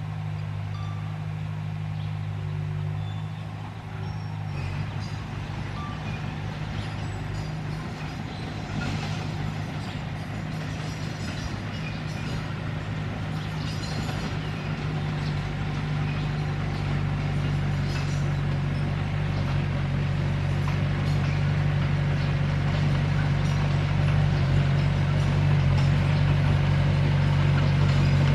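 Komatsu D21P bulldozer's diesel engine running steadily under work, with a low hum that grows gradually louder.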